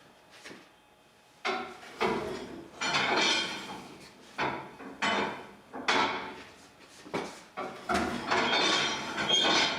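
A string of irregular hard knocks and clanks, roughly one a second, each ringing out briefly.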